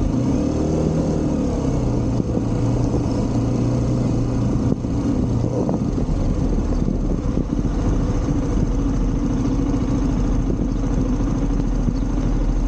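Motorcycle engine running on the move, with a steady rush of wind and road noise. The engine note rises and falls in the first couple of seconds, then settles to a steadier drone.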